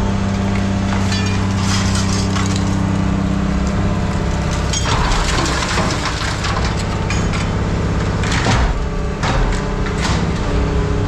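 Heavy scrap-handling machine's diesel engine running steadily under a string of sharp clanks, cracks and crunches of scrap metal being grabbed and broken. The impacts come thickest in the second half.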